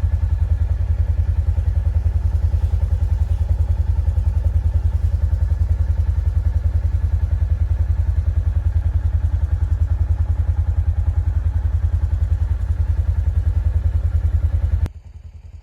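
Low, rapidly pulsing rumble of a running motor vehicle, cutting off suddenly near the end.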